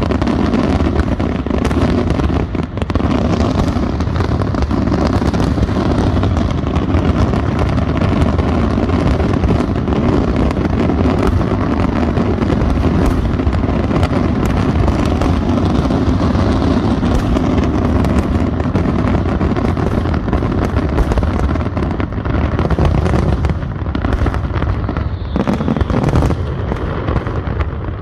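Finale fireworks barrage: a dense, unbroken run of shell bursts and crackles merging into a continuous low din, thinning briefly a few seconds before the end.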